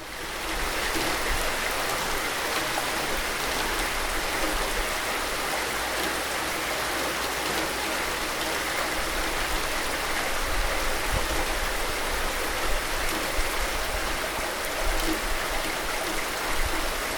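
Steady rain falling, a dense even hiss that swells in over the first second, with a few louder spatters in the second half.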